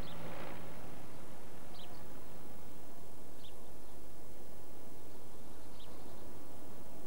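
Countryside ambience: a steady background hiss with a few short, high bird chirps spaced a second or two apart.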